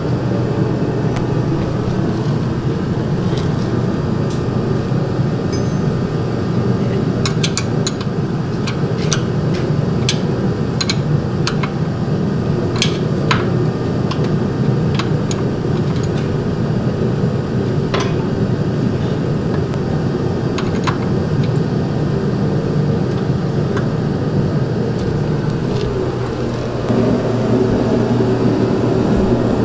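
A steady low mechanical drone, with scattered sharp metallic clinks of tools through the middle stretch. The drone shifts slightly near the end.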